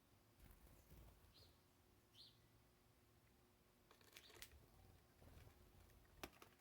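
Faint, short bird chirps, two in the first half, with several sharp clicks or taps later on, near the end the loudest.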